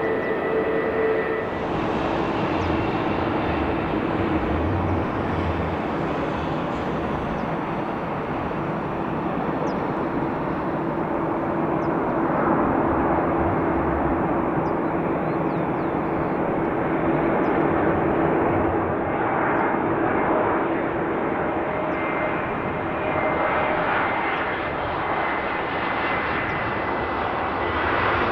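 Fixed-wing aircraft engines running: a continuous, fairly even engine noise with a steady hum through it.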